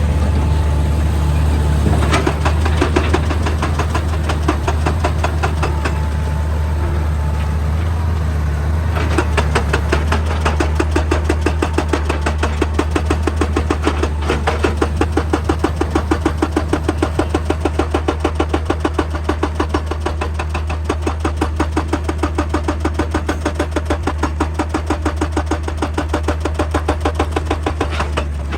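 Excavator's diesel engine running under load while its hydraulic breaker hammers rock in a fast, even stream of blows. The blows start faintly, grow strong and steady about a third of the way in, and stop just before the end.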